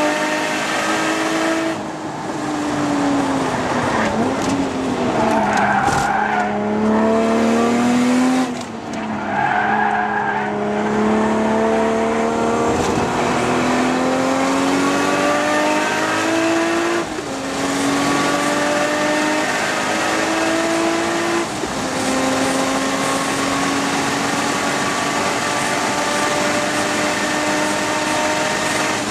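Toyota Supra MKIV's 2JZ-GTE straight-six heard from inside the cabin while lapping a circuit hard. The engine note climbs through the gears, with upshifts about 17 and 21 seconds in, and falls away under braking about 4 seconds in. Tyres squeal briefly in the corners about 5 and 9 seconds in.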